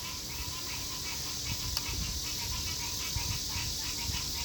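Insects chirping in an even rhythm of about four pulses a second, over a steady high hiss and a low rumble.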